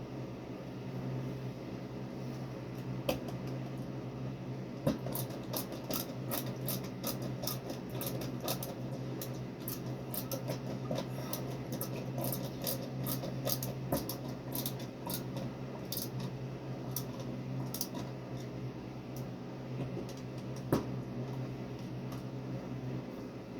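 Many light clicks and a few sharper knocks over a steady low hum.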